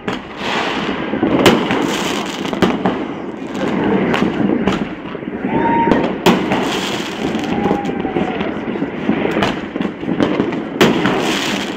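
New Year fireworks going off over a city: many irregular bangs and crackles from rockets and aerial shells bursting, some overlapping, over a continuous crackle. A short whistle sounds about halfway through, with a fainter one soon after.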